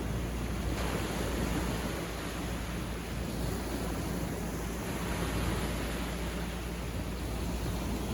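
Sea surf on a beach: a continuous wash of waves with no distinct breaks or other events.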